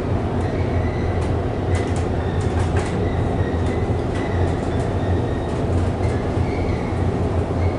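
Inclined elevator car running along its inclined rails: a steady low rumble and hum with scattered clicks and rattles.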